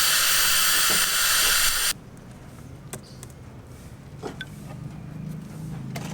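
A loud, steady hiss, like a spray or a jet of air, that cuts off suddenly about two seconds in. After it comes a much quieter stretch with a few light clicks and a low hum.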